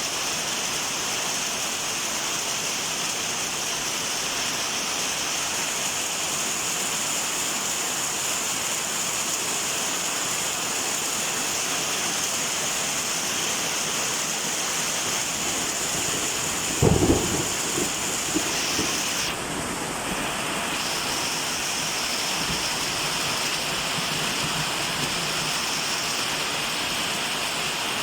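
Steady rain falling, an even hiss without a break. About seventeen seconds in, a short low rumble stands out over it for a second or so.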